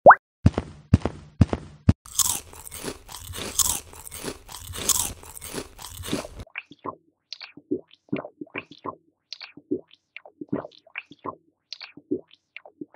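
Eating sound effects: a few sharp clicks, then several seconds of crunching, followed by a string of short, separate chewing noises.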